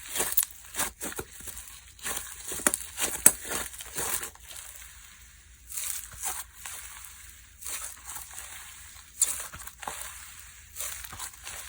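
Slime being squished and pressed by hand, giving irregular crackly, crinkling snaps with short quiet gaps between them.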